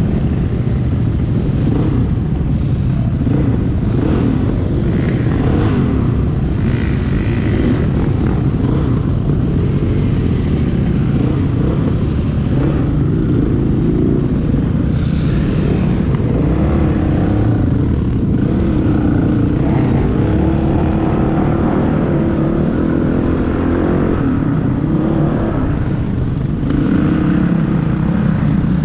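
Motorbike engines running, their pitch rising and falling now and then.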